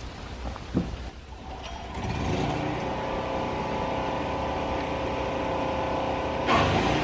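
An engine starts up about two seconds in and runs steadily. Near the end it jumps louder and holds, as if coming under load or being throttled up.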